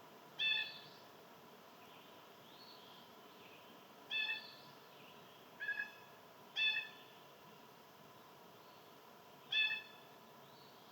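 A bird giving short, nasal calls, five in all with one doubled, over fainter bird calls.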